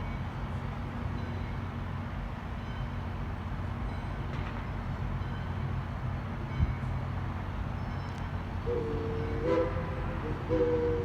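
Steady low rumble of a train, then about nine seconds in a locomotive whistle sounds several notes at once: a short blast, a brief pause, then a longer blast that is still going at the end.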